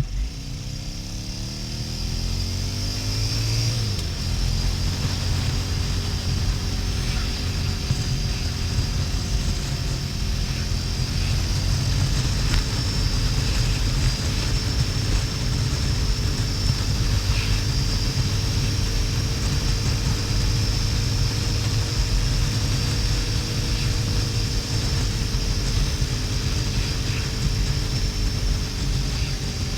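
Harley-Davidson XL1200N's 1200 cc air-cooled V-twin accelerating, rising in pitch for about four seconds, then shifting up and running steadily at cruising speed, with heavy low wind rumble on the GoPro microphone. The audio is sped up twofold.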